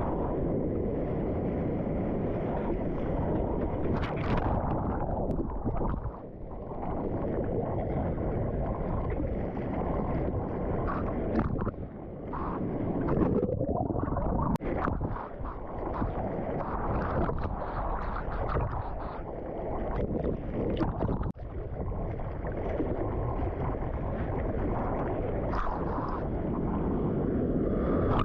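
Muffled rushing of surf water and wind noise on the camera microphone, steady with a few brief dips and small splashy clicks.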